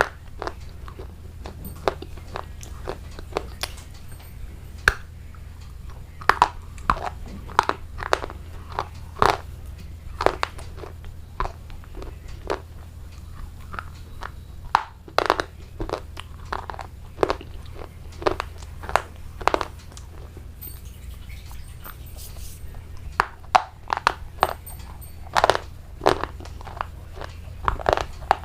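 Close-miked mukbang eating sounds: a person biting and chewing crunchy food, with many sharp, irregular crunches, a few a second, over a steady low hum.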